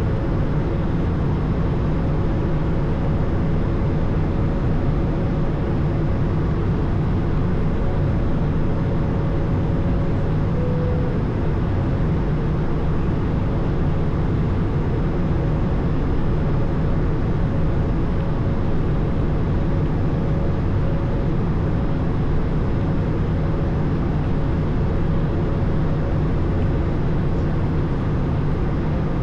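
Airbus A220 cabin noise heard from inside the aircraft, with its Pratt & Whitney PW1500G geared turbofan engines running steadily. It is a constant low rumble and airflow hiss with a faint steady whine.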